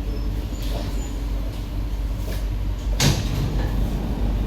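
Steady low hum of an SMRT C151B train standing at a station platform, with one sharp clunk about three seconds in.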